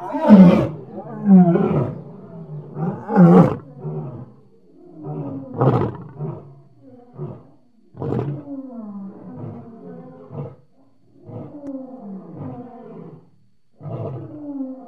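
Lion roaring: three loud full roars in the first few seconds, then a long run of shorter, quieter grunts, each falling in pitch.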